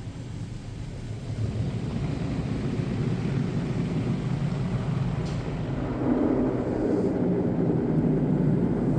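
Automatic car wash machinery running: a steady noisy rumble that grows louder about a second and a half in and again about six seconds in.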